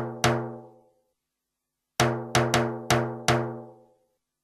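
A pitched drum struck in short runs, each hit ringing out and fading. Two hits fall right at the start. After a silent gap, a quick run of five hits comes about two seconds in and dies away within a second and a half.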